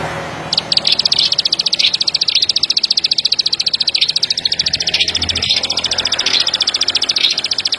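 Ciblek padi (ciblek sawah), a small prinia-family songbird, singing a fast, high, clicking trill of about ten notes a second that runs on almost without a break after a short pause at the start.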